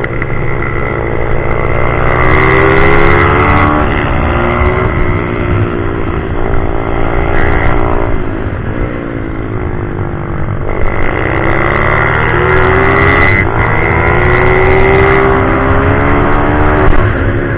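Pit bike's single-cylinder engine under hard riding, its pitch climbing and dropping several times as it is accelerated, shifted and backed off.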